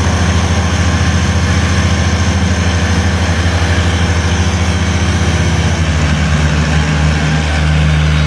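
Tractor diesel engine running with a rapid, even throb. Nearly six seconds in, the engine note drops and the throb smooths out.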